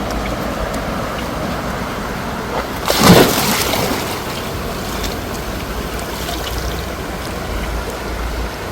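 Flowing stream water running steadily, with one brief, louder splash about three seconds in.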